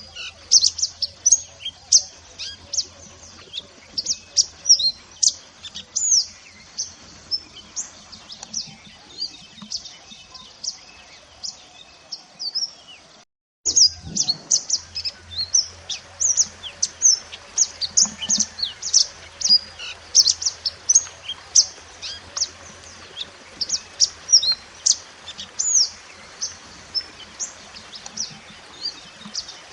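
Mantenan gunung bird song: a dense run of short, high chirps and quick whistled notes, several a second, that cuts out briefly about halfway through and then resumes.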